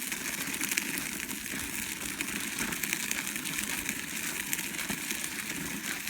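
A child's bike rolling along a snowy sidewalk, giving a steady gritty rolling noise with many small crackles.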